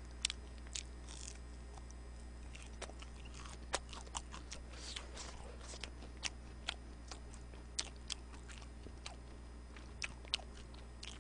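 Close-miked chewing of French fries and fried snacks: scattered soft crunches and small mouth clicks, a few to each second, over a steady low hum.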